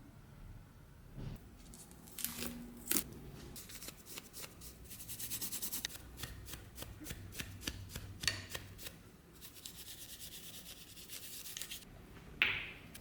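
Hands at work on metal and small parts: rubbing and scraping strokes with scattered light clicks. There is a quick run of short strokes about five seconds in, a stretch of steady rubbing later, and one sharp scrape near the end.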